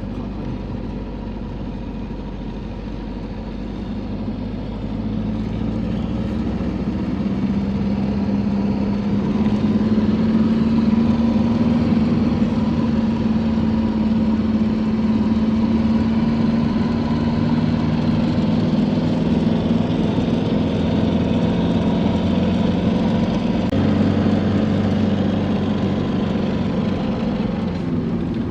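Truck engine running steadily while driving. Its pitch and loudness climb a few seconds in and hold, with a short dip and change near the end.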